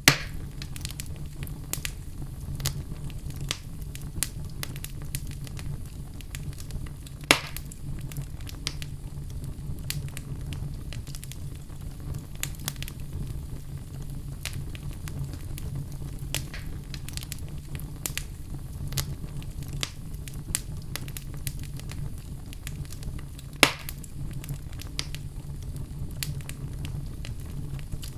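Wood fire burning in a fireplace: a steady low rumble of the flames with frequent irregular crackles and snaps, and two louder pops, about a third of the way in and near the end.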